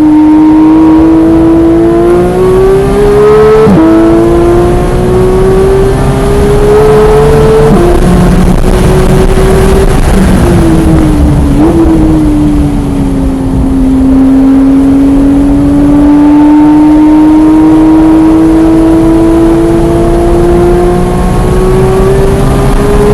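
Porsche 991.1 GT3's 3.8-litre flat-six under hard acceleration on track, its pitch rising and then dropping sharply at upshifts about 4 and 8 seconds in. Around 10 to 12 seconds in, the pitch falls under braking with a quick jump up at a downshift, then sinks and climbs slowly as the car accelerates out of a corner.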